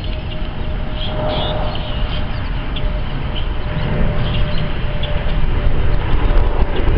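Jet airliner's engines heard as a low rumble that grows louder toward the end as the plane approaches, with a faint steady engine tone and birds chirping.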